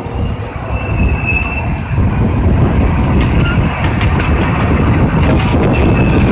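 Small zoo passenger train speeding up on its track, the running noise of wheels and cars growing louder about two seconds in, with brief high wheel squeals about a second in and again near the end.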